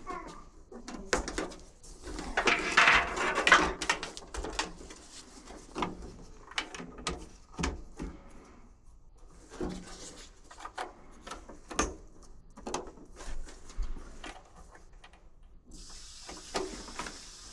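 Scattered knocks, clicks and clatter of parts and tools being handled, with a louder stretch of clattering a couple of seconds in. A steady hiss comes in near the end.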